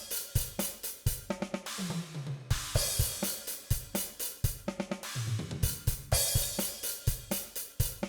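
DrumGizmo virtual drum kit playing back a looped groove with kick, snare and hi-hat. Each pass, about every three seconds, has a descending tom fill into a cymbal crash, the overheads carrying a little short room reverb.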